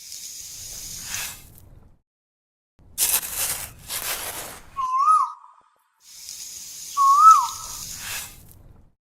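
Bursts of hiss with a faint low rumble underneath, and twice a short wavering whistle-like tone, about five and seven seconds in.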